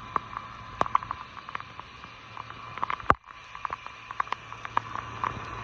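Rain Jet 75C brass full-circle lawn sprinkler running: a steady hiss of spray with irregular sharp patters of water drops landing, the loudest about three seconds in.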